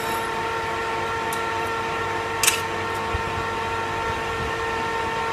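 Metal lathe running with a steady whine, with one short sharp tick about halfway through.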